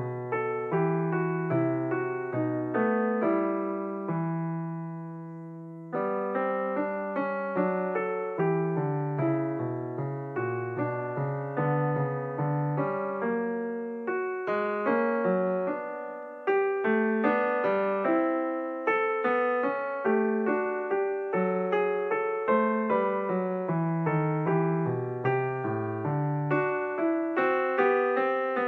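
Background piano music: a run of single struck notes over a low accompaniment, with a held chord left to fade out about four seconds in before the playing resumes.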